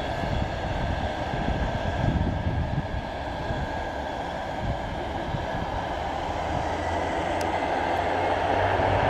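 Twin turboprop engines of a Beechcraft 1900 running with a steady rumble and hum, growing louder near the end.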